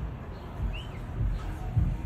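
Uneven low rumbling and buffeting, with a single short bird chirp that rises and falls in pitch a little under a second in.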